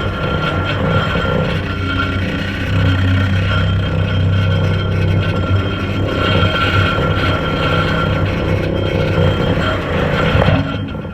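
An engine running steadily under load, a deep hum with a constant higher whine over it; it eases off near the end.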